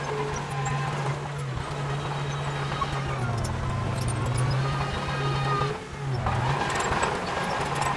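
Heavy diesel engine of earthmoving machinery running steadily, its note sagging twice, briefly, as if under load, with faint scattered metallic clicks over it.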